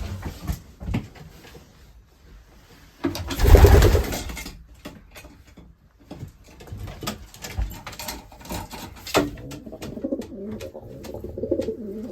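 Racing pigeons cooing, with a wavering coo near the end. Scattered light clicks and taps run throughout, and a loud rustling burst comes about three seconds in.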